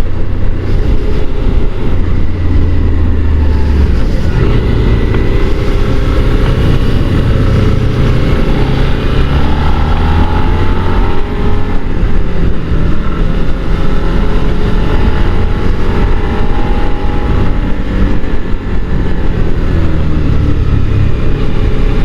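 Motorcycle riding heard from the rider's position: heavy wind rumble over a Suzuki SV650 V-twin engine whose pitch rises and falls with throttle and gear changes.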